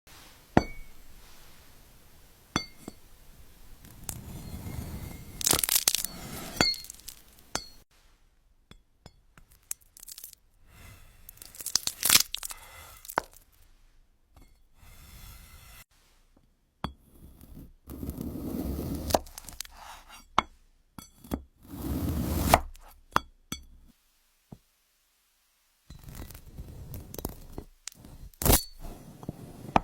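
A series of short close-miked knife-cutting clips: crunchy cracking and tearing as blades slice through crisp fruit and glassy objects, with sharp clicks and clinks. The clips are separated by brief silent gaps.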